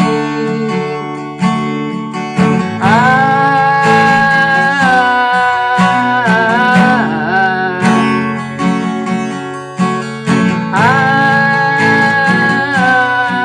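Acoustic guitar strummed in open chords with a capo on the second fret, with a wordless sung line that comes in twice, holding long notes.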